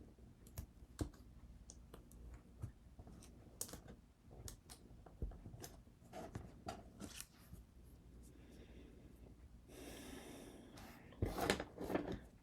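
Small tools and materials being handled on a work surface: scattered light clicks and taps, a brief rustle about ten seconds in, and a louder burst of scraping and rustling near the end.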